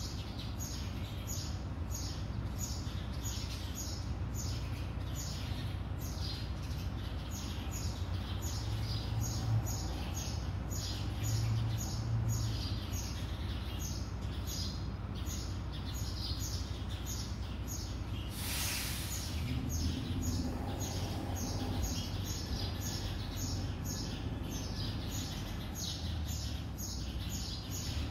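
Small birds chirping outside in a dense, continuous chorus of short quick notes, several a second, over a steady low hum. A brief hiss about two-thirds of the way through.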